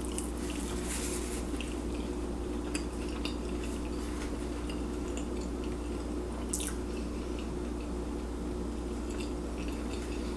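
Faint, close-up chewing and wet mouth clicks from eating a torta sandwich, over a steady low electrical hum; one sharper click about six and a half seconds in.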